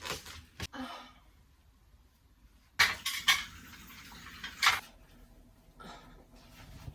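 Small hard household objects being handled and set down: a handful of sharp clinks and knocks, spaced a second or more apart.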